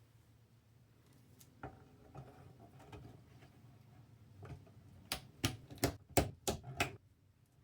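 Small hard parts being handled, clicking and tapping: a few light taps, then a quick run of about six sharp clicks over the last two and a half seconds.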